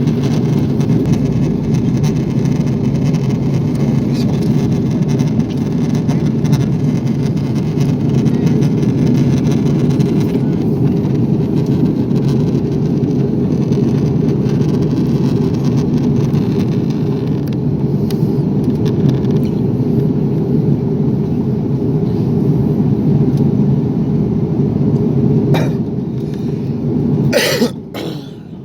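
Steady low cabin noise of an Airbus A340 airliner in flight. A few short clicks come near the end, where the noise briefly drops.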